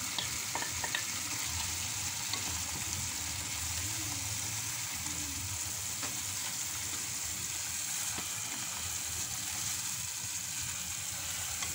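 Tomato and onion masala sizzling steadily in a pan while boiled red kidney beans are stirred into it with a wooden spoon, with a few faint taps of the spoon against the pan.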